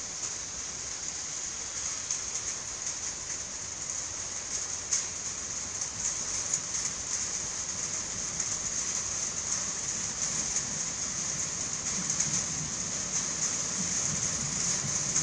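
Steady rain hissing down on the station platform. In the last few seconds the low rumble of an approaching EN57 electric multiple unit grows under the rain.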